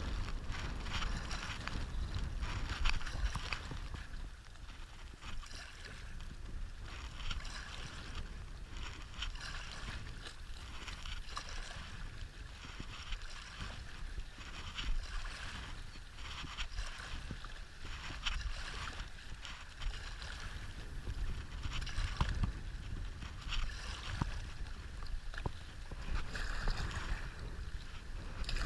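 Wind buffeting the microphone in a steady low rumble, over river water rushing and splashing around a stand-up paddleboard on whitewater.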